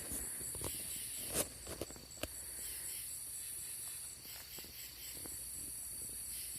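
Night insects, crickets or katydids, chirring in a steady, high, finely pulsing chorus, with a few soft clicks about a second and a half and two seconds in.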